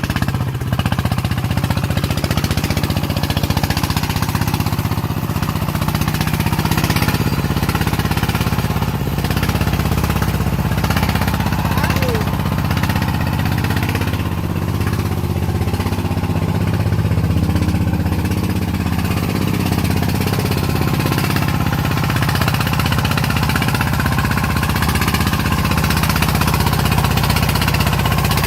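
Farm vehicle's diesel engine running steadily and loudly, a fast even chugging that holds its pace throughout.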